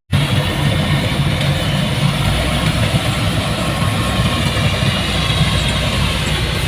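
Heavy farm-machine diesel engine running steadily at a constant speed.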